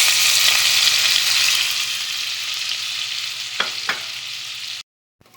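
Food sizzling in a frying pan, a steady crackling hiss that eases off slowly, with two light clicks about three and a half seconds in; it cuts off suddenly shortly before the end.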